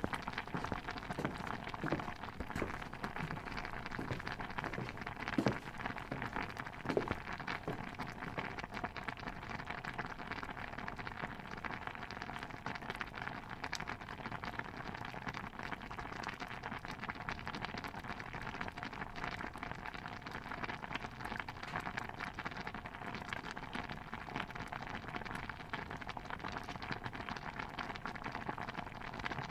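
A pot of stew bubbling steadily, a dense crackle of small bubbles popping, with a few louder pops in the first several seconds.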